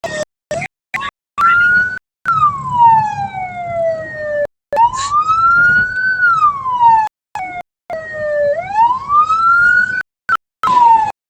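Vehicle siren wailing, its pitch sliding slowly down and back up, about two seconds per sweep. The sound cuts out again and again in short gaps.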